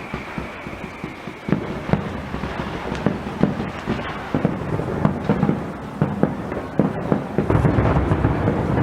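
Firework display: a rapid, irregular string of bangs and crackles that thickens and grows louder about seven and a half seconds in.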